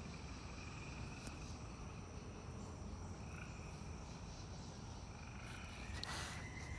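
Faint, steady chorus of frogs and insects by a creek, with a thin high steady tone joining about six seconds in.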